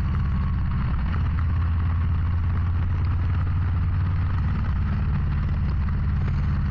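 Harley-Davidson Low Rider ST's Milwaukee-Eight 117 V-twin running as the bike rides, a steady low engine note that shifts briefly about a second in and again near five seconds, over a haze of wind and road noise.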